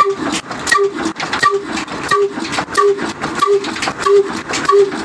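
28 hp Ruston-type stationary diesel engine running just after starting, firing in a slow, even beat of about three strokes every two seconds, with mechanical clatter between the beats.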